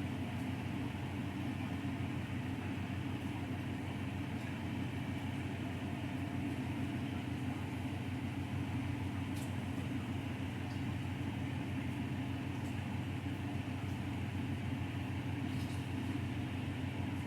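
A steady mechanical hum with a hiss above it, like a motor or fan running without change, and a few faint light ticks.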